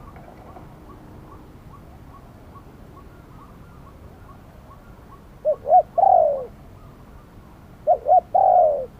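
Spotted dove cooing: two calls a couple of seconds apart, each two short coos followed by a longer, rolling coo. A faint, regular chirping repeats about twice a second underneath.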